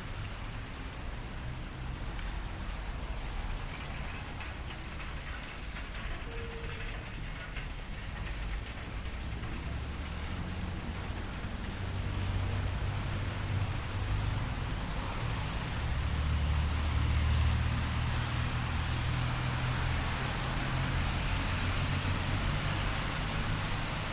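Steady light rain hissing and pattering on a city street, with the low rumble of traffic; a vehicle passes, louder about two-thirds of the way through.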